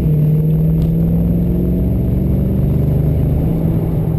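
1972 Dodge Charger's engine and exhaust running steadily as it drives, heard from inside the cabin: a loud, even low drone that holds its pitch.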